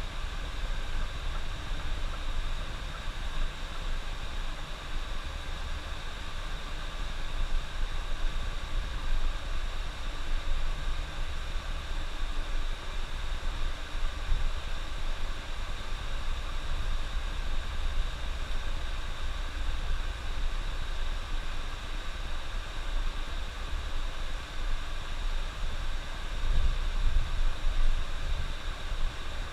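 Steady rumble and road noise of a moving bus, heard from the driver's cabin.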